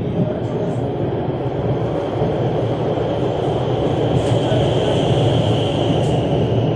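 Metro train running between stations, heard from inside the carriage: a steady rumble of wheels on the track, with a faint whine building through the middle and a few light clicks near the end.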